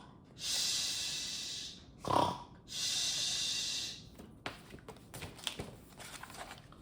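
A person imitating sleeping animals snoring: twice, a short snort followed by a long, breathy hissing exhale of about a second and a half. Faint small clicks follow in the second half.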